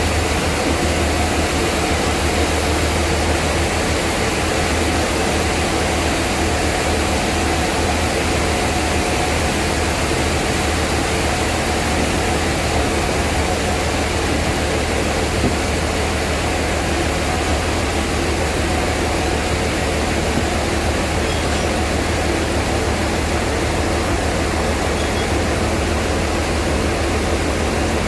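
Sawmill machinery running with a steady, unbroken drone and hum.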